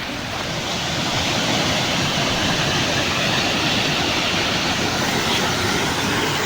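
Steady rush of flowing and falling water, swelling slightly in the first second and then holding even.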